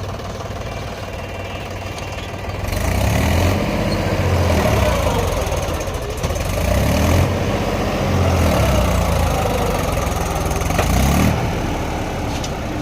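Heavy diesel engine running and revving up and down several times, louder from about three seconds in.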